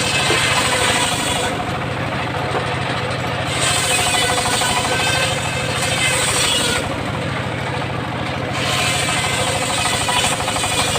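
Homemade engine-driven circular saw running steadily, its blade ripping through timber in three cuts a few seconds long, with shorter spells of the saw running free in between.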